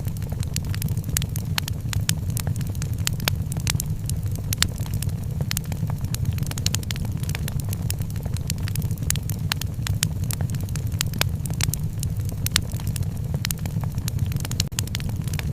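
Wood fire in a fireplace crackling, with many sharp crackles and pops, several a second, over a steady low rumble.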